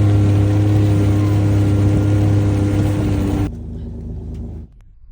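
Steady engine hum with a strong low drone that cuts off sharply about three and a half seconds in, leaving a fainter hum that drops away about a second later.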